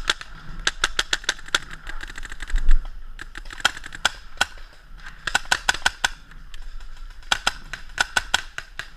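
Paintball markers firing: many sharp pops in quick runs of several shots with short gaps, and a single low thump about two and a half seconds in.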